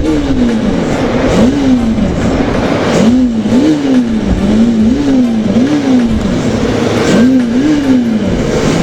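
Motorcycle engine revved in a series of quick throttle blips, the pitch climbing and falling back each time, about nine times in irregular bunches.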